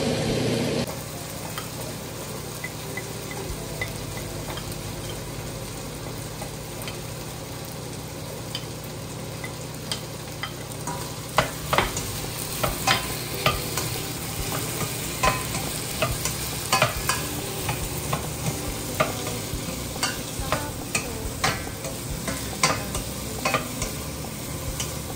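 Diced carrots and potatoes sizzling in hot oil in a stainless steel pan while being stirred with a wooden spoon. From about ten seconds in, the spoon knocks and scrapes against the pan again and again.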